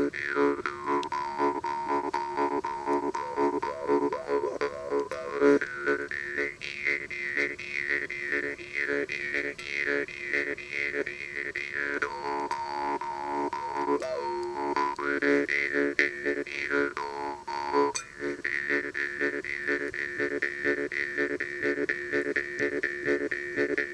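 Jaw harp (vargan) played in a fast steady rhythm over its drone, with overtone melodies sliding up and down above it as the player shapes the mouth.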